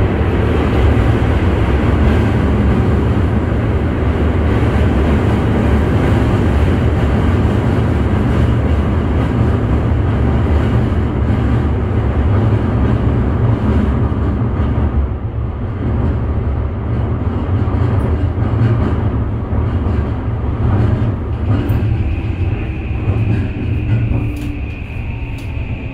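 Running noise inside a Toei 5500 series commuter train car: the steady rumble of wheels on rail and traction motors, which eases about halfway through as the train slows for the station. Near the end a steady high-pitched whine from the Mitsubishi SiC VVVF inverter sets in under braking.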